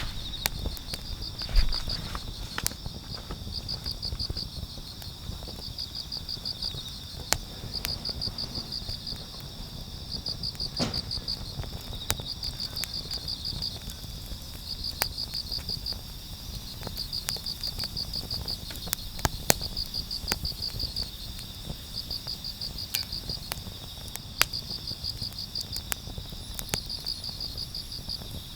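Autumn crickets chirping in repeated pulsed trills, each about a second and a half long and coming roughly every two seconds, over a steady high insect ringing. Scattered sharp snaps from the wood fire stand out above them.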